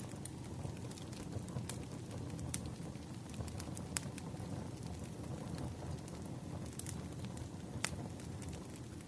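Wood fire crackling: a steady low rumble of burning logs with scattered sharp pops, the loudest a little before the end.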